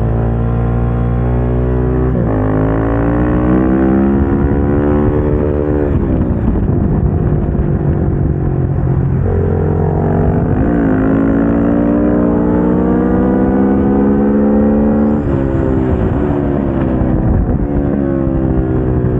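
Onboard sound of a KTM 690 SMC-R's single-cylinder engine, through a LeoVince exhaust, lapping a track. Its pitch climbs through the gears, falls away under braking and downshifts about six seconds in, climbs again, and drops once more near the end.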